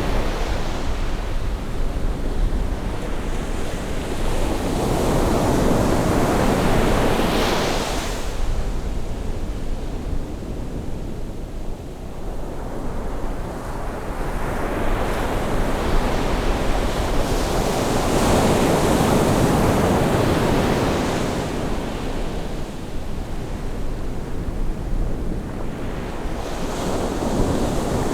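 Sea waves breaking and washing ashore on a rising tide, a continuous surf that swells and ebbs, with stronger surges about a quarter of the way in, about two-thirds of the way in and near the end. Some wind buffets the microphone.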